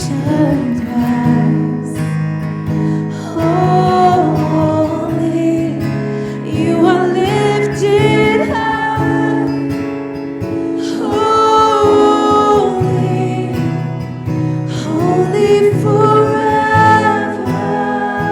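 Live worship music: singing with long, sliding held notes over strummed acoustic guitar and sustained low chords.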